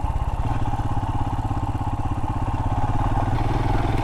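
Royal Enfield Himalayan's single-cylinder engine running steadily while riding, its firing pulses even and unbroken.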